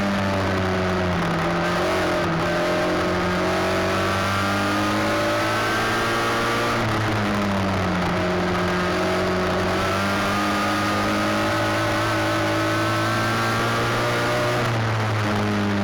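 Race car engine running laps at speed, its pitch falling off as it slows into the turns and climbing again down the straights, in a repeating cycle.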